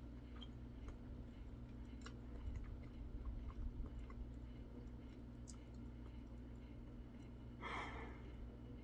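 Faint chewing with small mouth clicks as a man eats a fried chicken sandwich, over a steady low hum. A brief, louder, breathy sound comes near the end.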